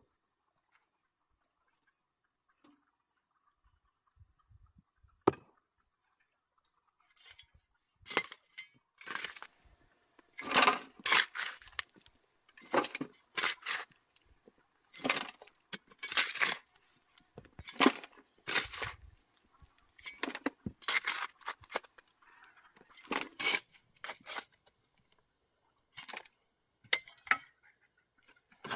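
Stones knocking and clinking against each other as they are handled: one sharp knock about five seconds in, then from about seven seconds a long run of irregular hard strikes, one or two a second.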